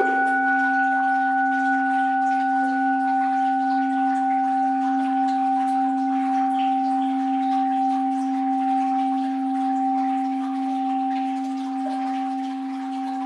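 Orin (Japanese Buddhist bowl bell) struck once at the start and left to ring: a low hum with a few higher overtones, wavering gently and slowly fading.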